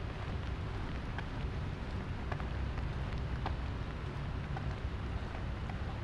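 Light rain falling steadily, with scattered single drops ticking close by, over a low steady rumble.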